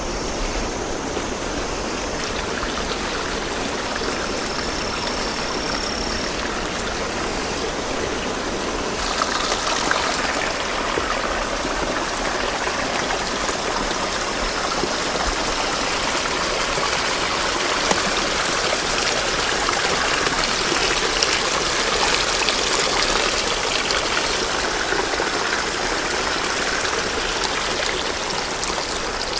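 Stream water rushing steadily, getting a little louder about nine seconds in.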